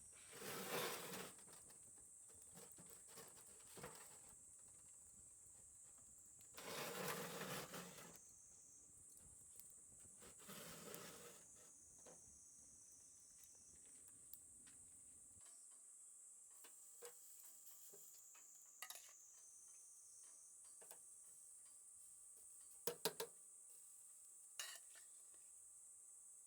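Faint handling sounds, three short rustling scrapes and then a few light clicks and knocks, over a steady high-pitched insect drone.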